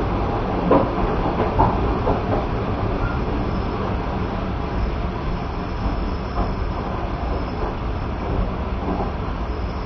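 Passenger train carriage rolling along the track, a steady low rumble of wheels on rail. A few sharp wheel knocks over rail joints come in the first two seconds.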